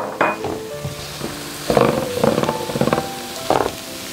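Soft background music over a flour-and-butter roux with onion and bell pepper sizzling in a skillet as it is stirred, with a few short scrapes of the stirring.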